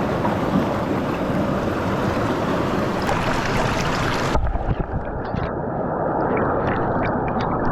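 Mountain stream running, a steady rush of water. About halfway through the sound abruptly turns muffled, losing its high end, with a low thud and then scattered small clicks over the water noise.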